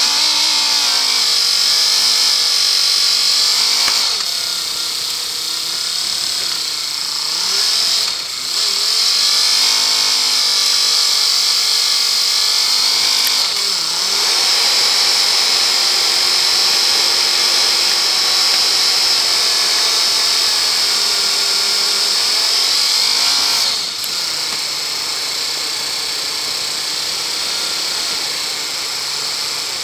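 Land Rover engine under way on a rough track, its pitch dropping and climbing several times as the revs change, over a steady high hiss.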